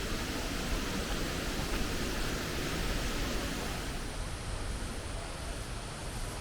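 Waterfall roar, a steady, even rush of falling water.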